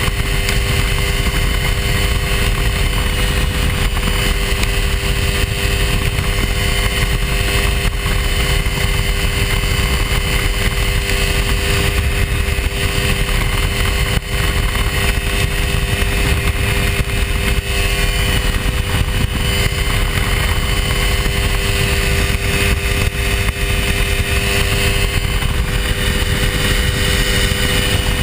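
Hy-Tek Hurricane ultralight's engine and propeller running steadily at a constant pitch in flight.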